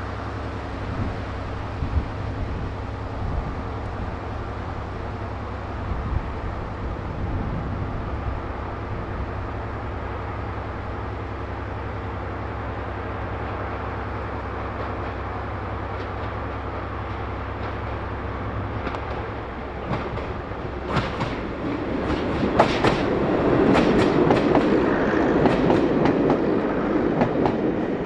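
Diesel train running by, first a steady low engine drone, then from about two-thirds of the way in its wheels click over the rail joints as the passing noise swells and grows loudest near the end.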